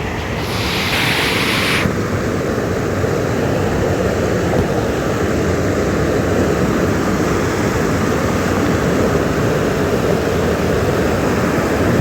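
Fast-flowing mountain stream rushing steadily over rocks, with a brief brighter hiss about a second in.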